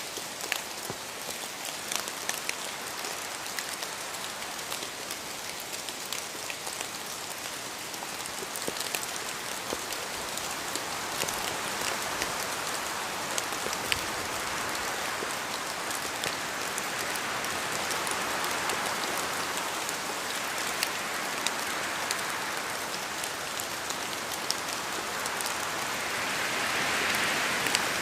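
Steady rain falling, a dense hiss with many separate drops ticking on a surface; it swells a little louder in the second half and again near the end.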